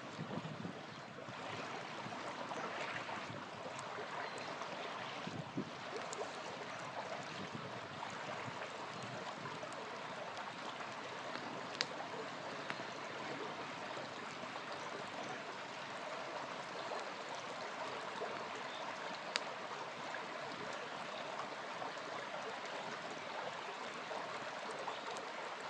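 Small river flowing steadily, with a campfire crackling over it and a few sharp pops from the fire now and then.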